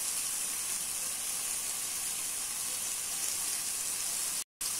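Tomato and onion masala frying in oil in a metal pan, a steady sizzle. The sound cuts out for a moment near the end.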